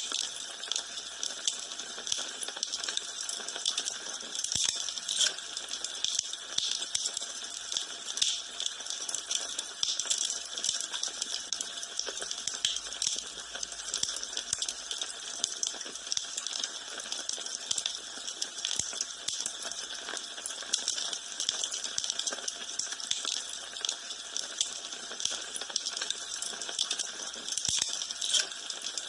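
Wood fire burning in a fireplace, crackling steadily with dense, irregular small snaps and an occasional louder pop.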